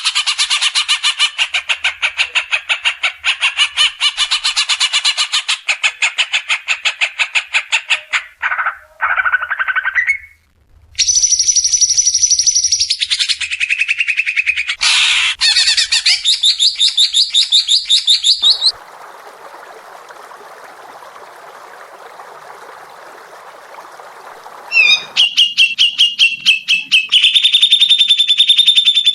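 Recorded songbirds in a string of spliced clips: long runs of fast, rattling trills and chatter at several different pitches. A brief gap comes about ten seconds in, and a quieter hissy stretch of about six seconds follows later, before a high, fast trill returns.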